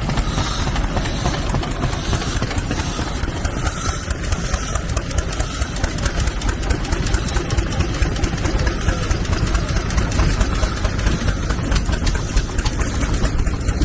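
Old stationary engine running steadily, with a fast, even beat of exhaust and mechanical knocks.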